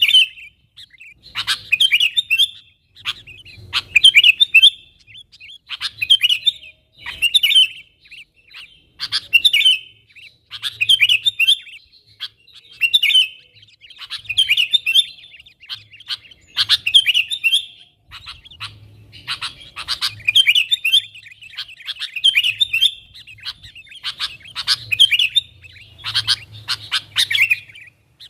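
Sooty-headed bulbul (kutilang) singing in short, busy phrases repeated every one to two seconds. This is a gacor calling song played to lure wild bulbuls closer.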